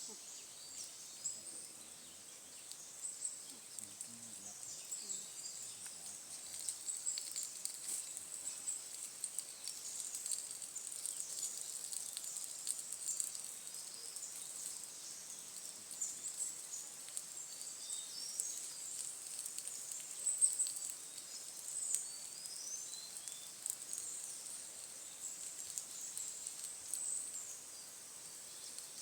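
Forest ambience: a steady high-pitched insect drone with many short high chirps over it, and scattered sharp clicks.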